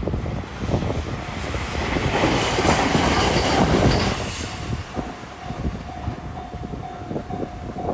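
A train running past a level crossing, its wheels clacking over the rail joints, loudest a few seconds in and then easing off. From about five seconds in, the level-crossing warning bell rings as a steady repeating tone.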